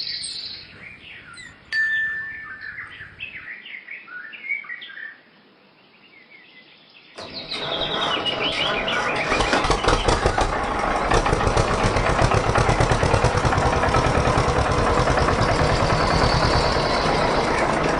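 Birds chirping, then about seven seconds in a small motor starts suddenly and runs steadily with a loud, fast, even buzz.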